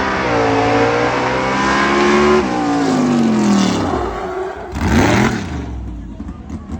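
Vehicle engine revving hard: the pitch climbs and holds, drops off about halfway through, then gets one short blip of the throttle near the end before easing off.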